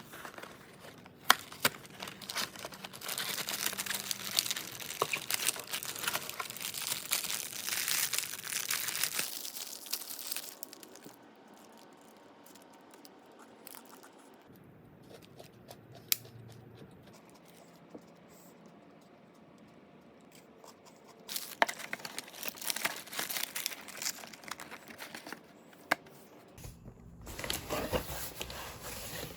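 Packaging being handled and opened, crinkling and tearing, in two long spells of rustling broken by quieter stretches.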